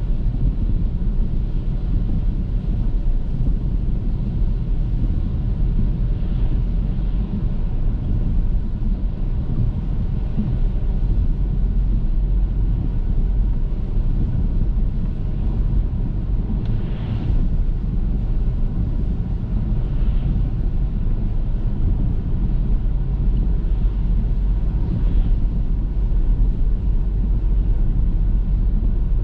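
Car driving on a wet road: a steady low rumble of engine and tyre noise, with a few brief, faint swishes.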